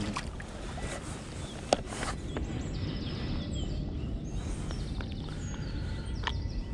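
Birds chirping faintly in short high calls from about two and a half seconds in, over a low steady outdoor rumble, with a few sharp clicks.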